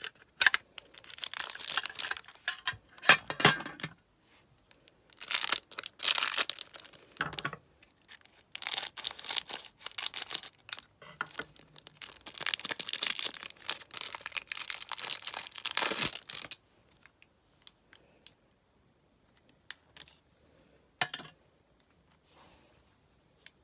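Match Attax trading card packet wrapper being torn open and crinkled in several bursts of rustling over about sixteen seconds, then only occasional faint clicks of cards being handled.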